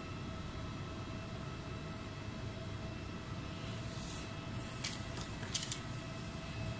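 Steady electrical or mechanical hum with a faint whine, with a few light clicks and ticks about four to six seconds in.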